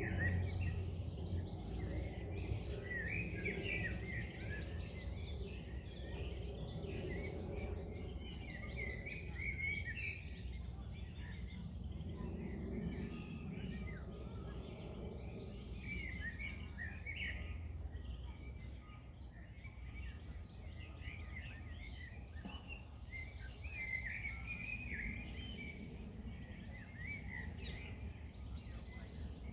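Several small birds singing and chirping on and off, over a steady low rumble and the hush of wind in trees; the rumble is strongest in the first several seconds.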